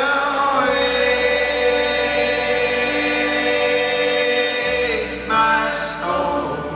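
Live band music between sung lines: long sustained chords with held, choir-like voices, the chord changing near the end.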